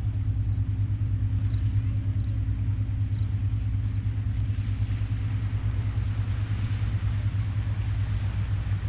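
Steady low rumble of ocean surf on a beach at low tide, with faint short high chirps every second or so.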